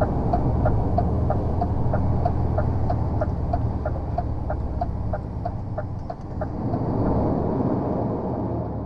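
Lorry's diesel engine running, heard from inside the cab as a steady low rumble, with a regular light ticking of about three a second over it.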